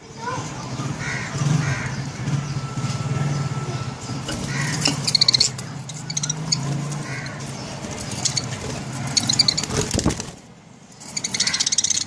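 Budgerigars chirping and chattering in short, repeated bursts over a steady low hum.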